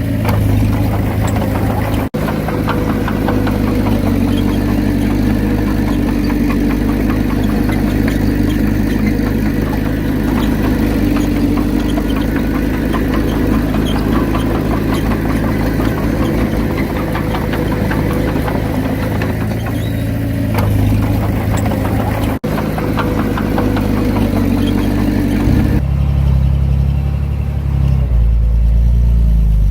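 Heavy diesel earthmoving machinery running steadily under work, an engine with a clattering mechanical rattle. Near the end the sound changes to a deeper, louder rumble.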